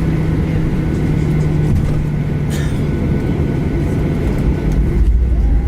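Boeing 737-800's CFM56 jet engines running, heard from inside the passenger cabin: a steady low rumble with a steady hum and a faint high whine, the rumble swelling briefly near the end.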